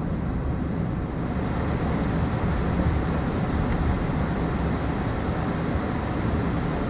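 Steady low rumble inside a sedan's cabin as it drives slowly over a snowy, icy road.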